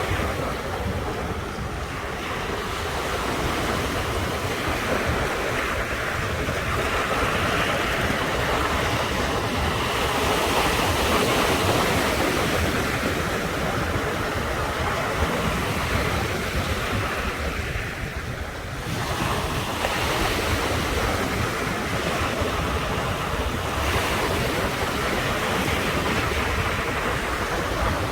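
Ocean waves breaking and washing onto the shore in a continuous rush. It swells and eases, dipping briefly near the start and again about two-thirds of the way through.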